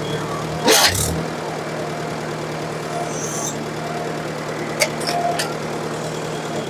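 1954 Ford NAA tractor's four-cylinder gasoline engine idling steadily. A brief loud burst of noise about a second in, and a sharp click near five seconds.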